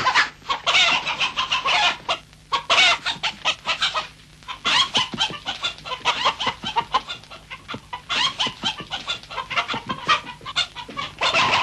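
A rapid run of short, sharp bird calls coming in bursts, with brief pauses about two and four seconds in.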